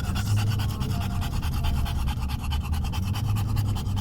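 English bulldog panting fast and hard in a steady rhythm, as a bitch does just after whelping. A low, steady hum of the car runs underneath.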